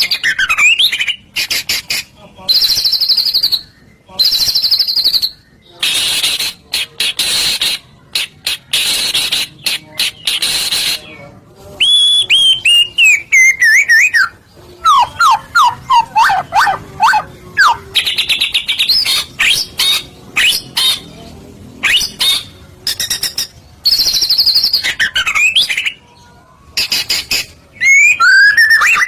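White-rumped shama singing a long, varied song: harsh buzzy notes, clicking rattles and clear whistled phrases that slide downward, with a run of quick falling notes about halfway through. The phrases are separated by short pauses.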